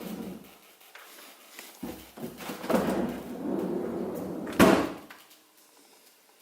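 Refrigerator door being moved and shut, with rumbling handling noise followed by one sharp slam about four and a half seconds in.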